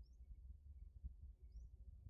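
Near silence: a couple of faint, short, high bird chirps over a low background rumble.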